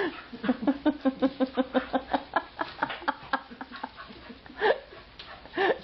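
Dog making a quick run of short voiced huffs and grunts, about five or six a second, while playing with a toy, then two louder yelps near the end.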